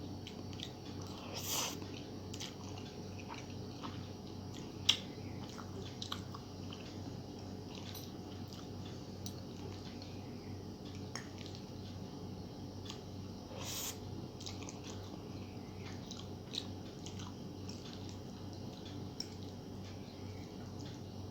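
A person chewing mouthfuls of noodles with egg masala, with scattered small wet clicks and a few louder bites, over a steady low hum.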